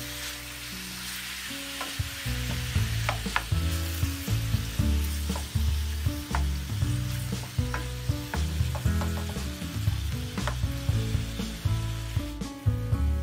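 Cubes of beef sizzling in a stainless steel frying pan while a wooden spoon stirs them, the spoon knocking against the pan now and then. Low background music runs underneath.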